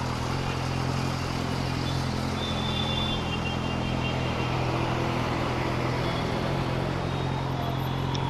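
A vehicle engine running at a steady, unchanging pitch, with road and traffic noise around it.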